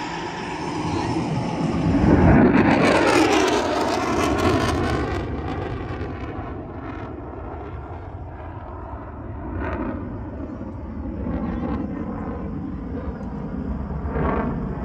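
Airplane flying fast past the crowd: loudest about two seconds in, its pitch falling as it passes and its engine noise fading to a lower rumble.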